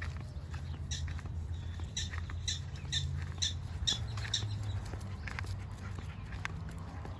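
Black-tailed prairie dogs giving repeated short, high chirping barks, about two a second, for a few seconds, over a steady low rumble.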